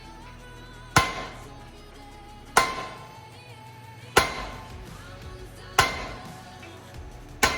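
A hammer striking steel parts while a 362 mm truck clutch pressure plate is closed up: five evenly spaced blows about 1.6 s apart, each leaving a short metallic ring.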